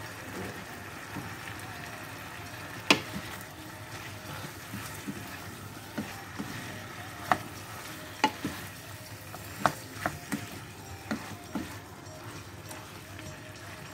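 Chicken, carrots and potatoes sizzling in a pan with tomato paste as they are stirred. Steady frying hiss, with a utensil knocking sharply against the pan about ten times, the loudest about three seconds in.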